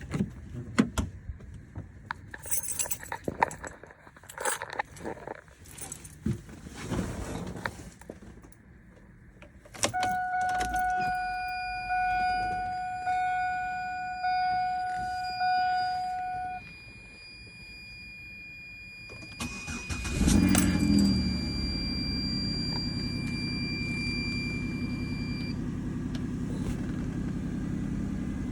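Keys jangling and clicks inside a 2004 Chevrolet Venture minivan, then a dashboard warning chime pulsing about once a second for several seconds. About twenty seconds in, the 3400 V6 engine cranks briefly and catches on a cold start, then settles into a steady idle.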